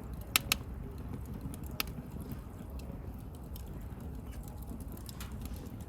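Wood bonfire crackling: a few sharp pops, two close together near the start and another near two seconds in, over a low steady rumble of the burning fire.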